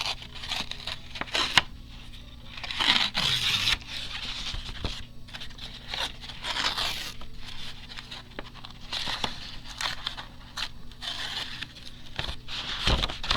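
A sheet of paper being torn by hand in a series of short rips, with rustling and crinkling as it is handled.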